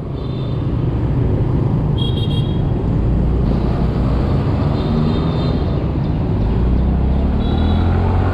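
Small Yamaha scooter engine running on the move in traffic, its note rising as it speeds up near the end. A few brief high beeps sound over it.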